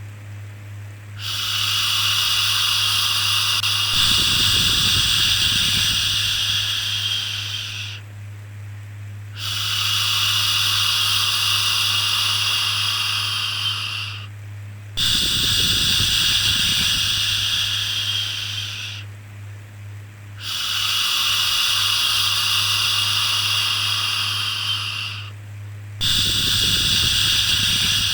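A soft, long 'shhh' shushing for soothing a baby, repeated about five times with a short pause of about a second between each, over a steady low hum.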